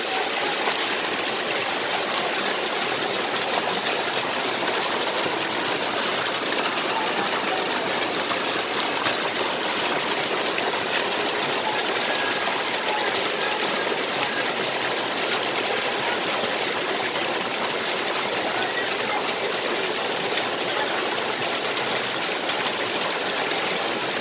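A stream with small waterfalls, its water running and splashing in one steady, even rush that never pauses.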